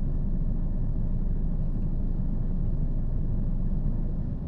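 Steady low rumble of a car on the road: engine and tyre noise.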